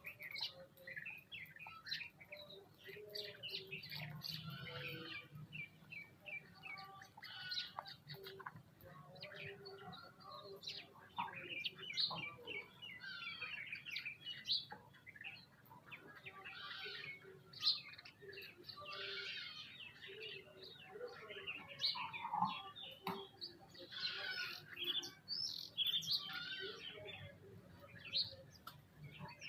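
Many birds chirping at once, short calls overlapping continuously, with one sharper sound a little past halfway.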